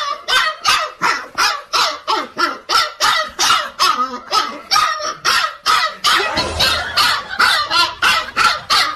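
A dog barking rapidly and without pause, about three to four loud barks a second.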